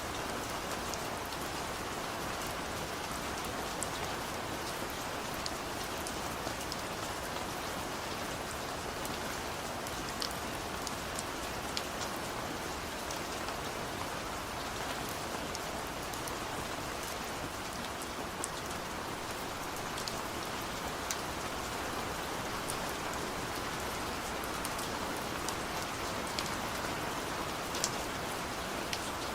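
Steady heavy rain, a dense even hiss with scattered sharp drop ticks throughout.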